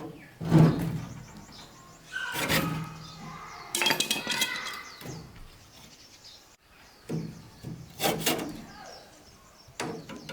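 A series of separate knocks and clinks, with some short ringing or voice-like sounds between them, about a second in and again around three to five seconds.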